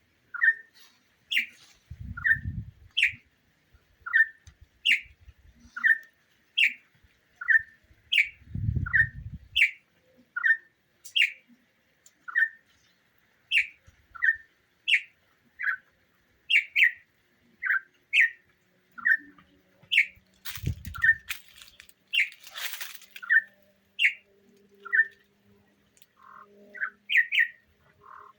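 A songbird calling over and over in short chirps, about one every three quarters of a second, alternating a lower note with a higher, upward-rising one. A few low thumps and a brief noisy rush a little past the middle break in.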